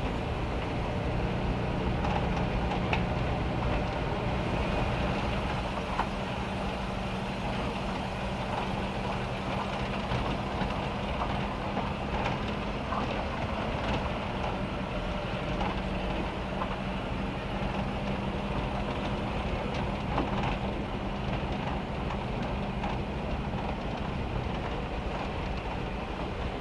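Heavy rain drumming on a van's metal roof: a dense, steady patter of drops with frequent sharper taps, over a steady low hum.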